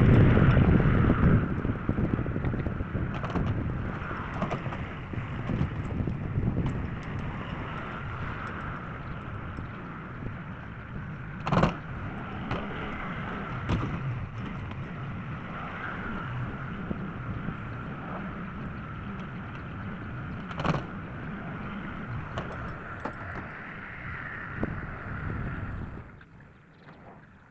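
Tractor engine running steadily, loudest at first, with two sharp metal clanks along the way; the engine sound falls away shortly before the end.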